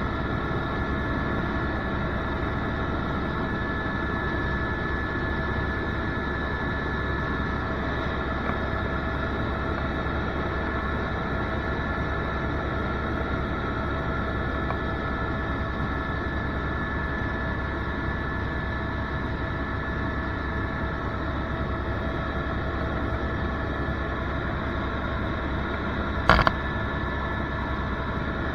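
Helicopter cabin noise: the steady drone of the engine and rotors with a steady high whine, broken once near the end by a short sharp knock.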